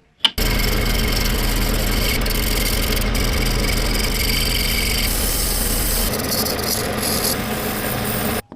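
Electric coffee grinder running, a steady motor drone under a gritty grinding noise as beans are ground. It starts suddenly just after the start, the low hum drops away about six seconds in, and it cuts off near the end.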